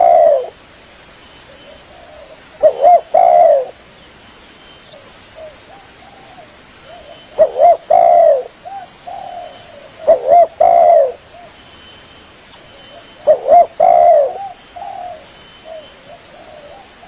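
Spotted dove (tekukur) singing: loud phrases of arching coos about every three to five seconds, with softer coos between them.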